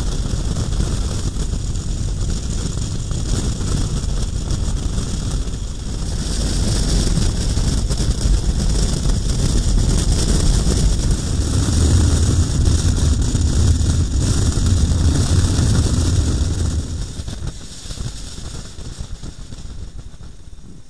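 KTM 1090 Adventure R motorcycle engine running under way, with wind rushing over the microphone while riding. It fades down over the last few seconds.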